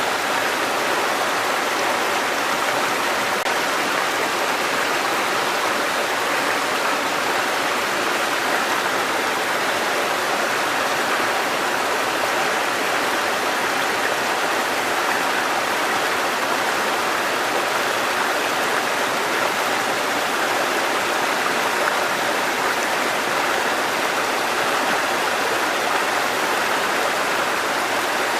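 Mountain stream cascading over rocks: a steady, even rush of water.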